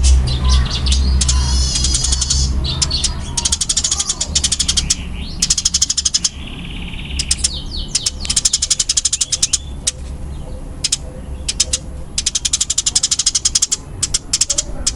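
Eurasian tree sparrows giving their fast, dense fighting chatter: rapid high chirps in repeated bursts with short gaps. A low rumble runs underneath and is strongest at the start.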